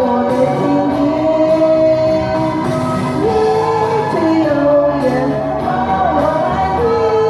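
A woman singing a slow Chinese pop song with instrumental accompaniment, holding long notes with vibrato and sliding between them.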